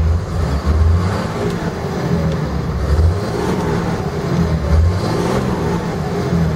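2007 Dodge Ram 3500's Cummins turbo-diesel inline-six revved in neutral, the engine speed rising and falling a few times.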